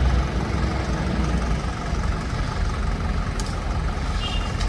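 A heavy engine running steadily, a low rumble, with a brief high beep near the end.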